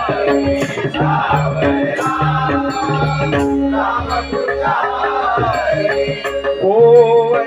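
Traditional Marathi bhajan performance: singing over held harmonium notes, with a hand drum and small cymbals keeping a steady beat. Near the end a sung note slides up and is held loudest.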